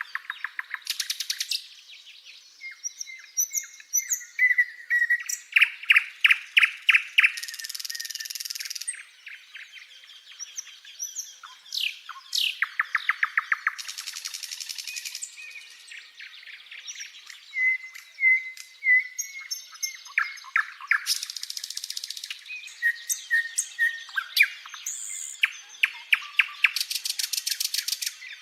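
Birds singing: a busy run of chirps, short whistled notes and rapid trills, with dense buzzy passages every few seconds.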